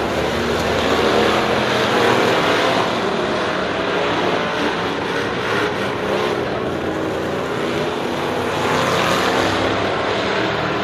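Several race car engines running together at racing speed, their overlapping pitches rising and falling as the cars accelerate and lift.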